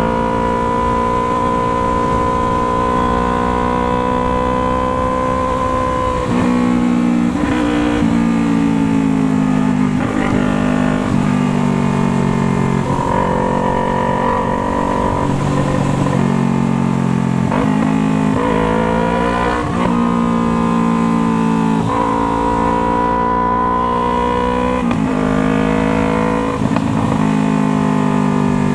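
Yamaha MT-03's parallel-twin engine pulling under load on the move. It holds a steady note for a few seconds, then runs through a series of quick gear changes, the pitch dropping and climbing again with each shift.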